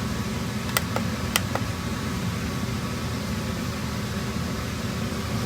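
Dometic rooftop RV air conditioner running with both its blower and condenser on, a steady hum under a rush of air. A few light clicks come about a second in.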